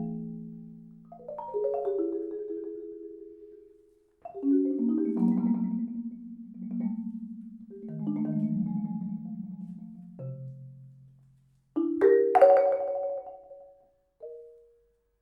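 Solo marimba playing soft rolled chords, mostly in the low and middle register, each swelling and then dying away. About twelve seconds in comes a brighter, sharper-struck chord, and near the end one last quiet note.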